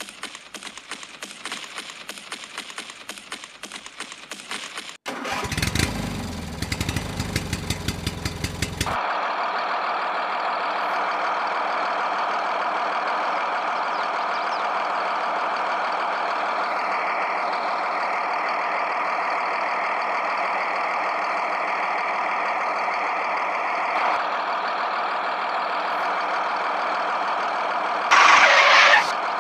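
An engine starting up: a few seconds of rapid clicking, then cranking strokes with a rising pitch as it catches, then steady running for most of the time, with a brief louder burst near the end.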